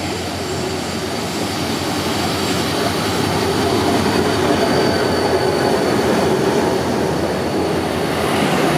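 A train rolling on rails, a steady rumble with a faint high wheel squeal over it, growing gradually louder.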